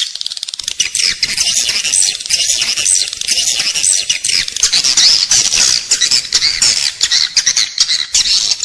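Edible-nest swiftlet calls: a dense, continuous chorus of high, rapid twittering chirps. This is the lure sound played inside a swiftlet house to attract the birds to roost and nest.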